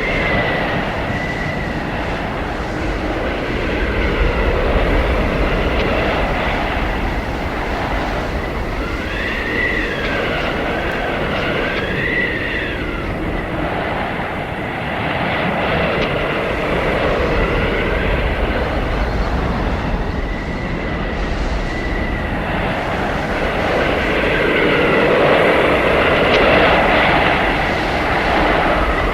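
Howling blizzard wind: a continuous rushing gale with a thin, high whistle that swells and bends up and down every few seconds.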